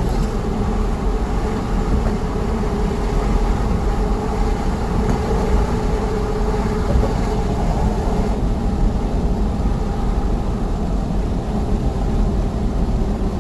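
Steady engine and road noise from a moving vehicle, heard from inside the cab: an even, unbroken rumble with a faint steady hum.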